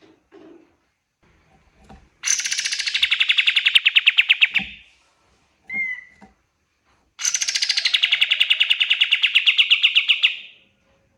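Kapas tembak (pied triller) singing: two long, rapid trills, each starting high and dropping to a steady lower pitch, with a short single note between them.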